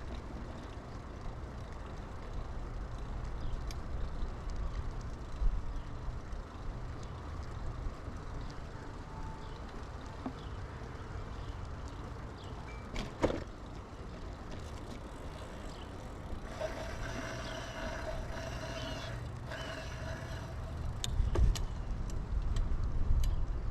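Bicycle ride heard from a chest-mounted camera: steady low wind and tyre rumble, with a sharp click about halfway through. Past the middle, a steady pitched tone runs for about three and a half seconds and then stops.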